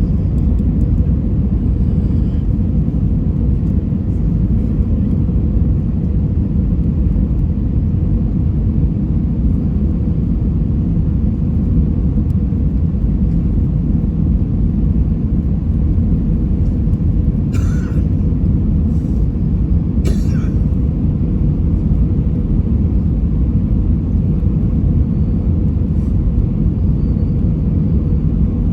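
Steady low rumble of engine and airflow noise inside the cabin of an Airbus A320-200 airliner on approach, with a faint steady hum over it. Two brief hissing or rustling noises come about 18 and 20 seconds in.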